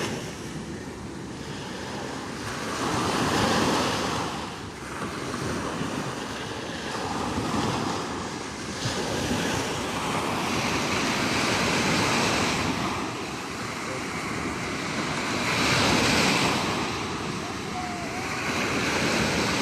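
Sea waves breaking and washing in, the surf noise swelling and ebbing roughly every four seconds, with wind blowing across the microphone.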